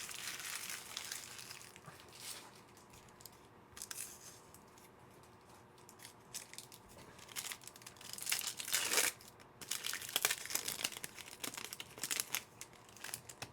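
Foil trading-card pack wrappers crinkling and tearing as packs are handled and ripped open, in faint scattered bursts, busiest near the start and from about eight seconds on.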